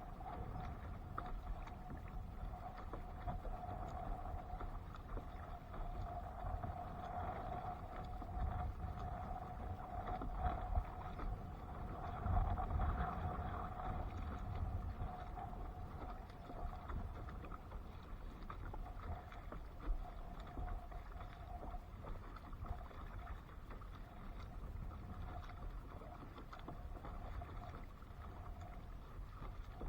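Outdoor noise on a kayak at sea: a steady low rumble of water and wind on the microphone, with a few light knocks. A faint steady hum drifts in and out under it.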